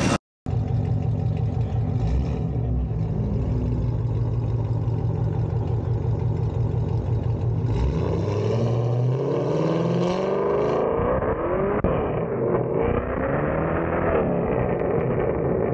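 Chevrolet Camaro's engine running low and steady, then accelerating from about eight seconds in, its pitch rising in several sweeps as it pulls away.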